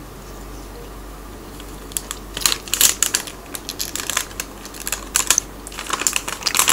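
Close-miked eating and handling sounds: after about two seconds of quiet, a run of sharp crackly clicks from chewing fish cake and from gripping a soft plastic squeeze bottle of hot chicken mayonnaise.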